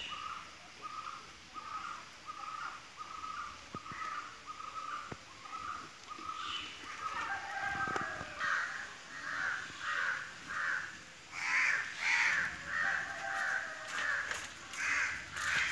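Birds calling in a steady series of short, evenly spaced calls, about two a second. About halfway through, the calls grow louder and higher.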